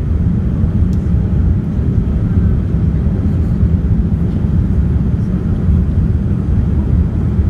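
Boeing 787 airliner heard from inside the cabin: a steady, loud, low rumble of engine and air noise.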